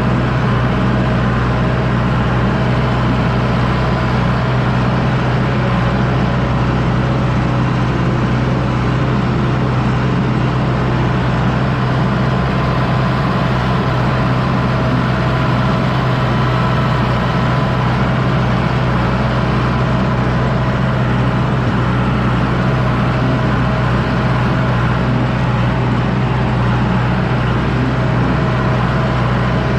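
John Deere 6110D tractor's diesel engine running steadily at a constant, even pitch while pulling a disc harrow.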